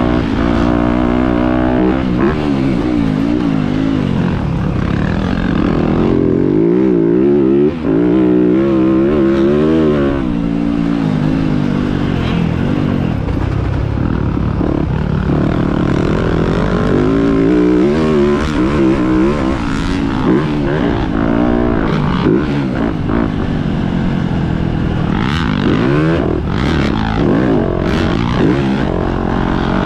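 Motocross dirt bike engine running hard, its pitch climbing and dropping over and over as the throttle opens and closes through the ride.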